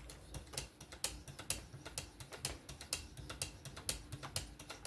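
Abrasive plate on the swing arm of a Work Sharp Precision Adjust Pro fixed-angle sharpener stroked back and forth along a knife edge: light, irregular clicks and scrapes, several a second.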